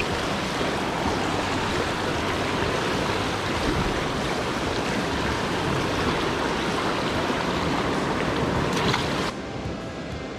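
Steady rush of flowing creek water, running high and turbulent from a dam release upstream. It drops to a quieter level about nine seconds in.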